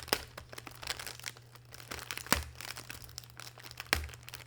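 Plastic cookie packaging crinkling as it is worked open with difficulty, with three sharp snaps about two seconds apart.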